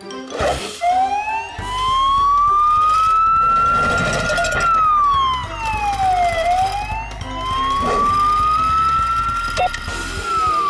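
A wailing siren that rises slowly over about four seconds and falls back more quickly, twice, over a low rumbling background.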